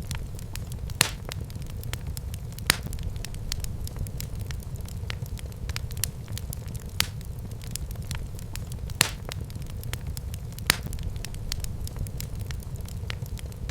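Fire burning in a fireplace and crackling: a steady low rumble with a constant patter of small pops, and louder sharp snaps every second or two.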